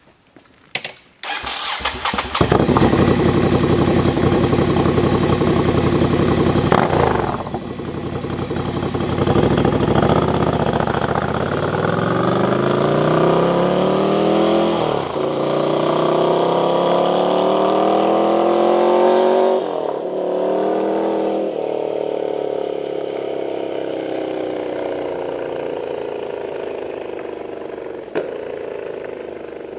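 Ducati Scrambler L-twin motorcycle engine starting about two seconds in and running, then pulling away with rising pitch broken by two gear changes, before its pitch and level slowly fall away.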